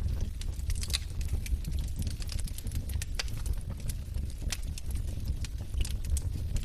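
Wood fire of burning logs crackling: irregular sharp pops and snaps over a steady low rumble of the flames.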